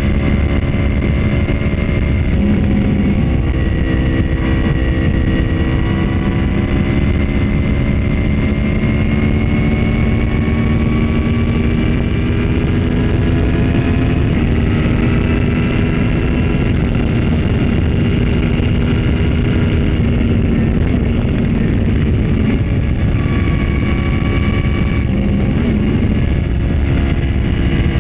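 2014 Yamaha R1's crossplane inline-four running under way through an Austin Racing GP2R exhaust, its note climbing slowly with a few brief dips as the throttle changes, over a steady rush of wind.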